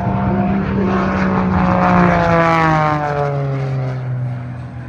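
Propeller aircraft flying past. Its engine and propeller tone is loudest about two seconds in and falls steadily in pitch as it passes, then fades away.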